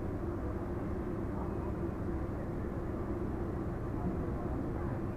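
Steady low rumble and hum of an Indian Railways express train standing at a station platform.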